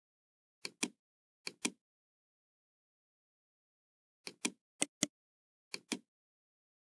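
Computer mouse buttons clicking, five times, each click a quick press-and-release tick pair: two clicks in the first two seconds, then three more from about four to six seconds in.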